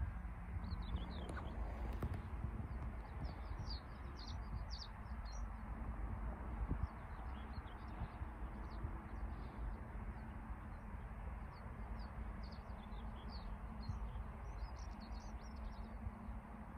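Small songbirds chirping and twittering in quick, scattered short calls over a steady low rumble.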